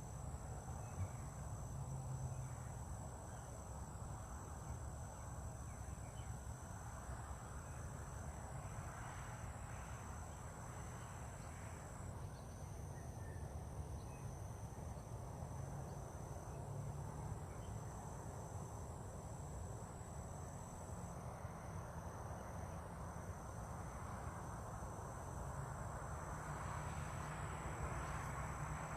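Steady high-pitched trilling of an insect chorus, over a constant low outdoor rumble.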